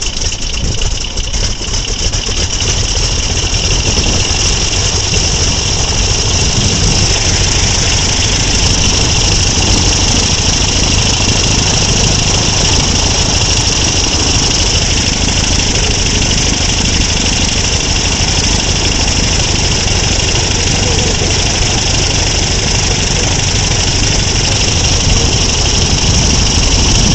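Radial engine of a Naval Aircraft Factory N3N biplane running steadily at idle after start-up, an even low pulsing with a steady high hiss over it.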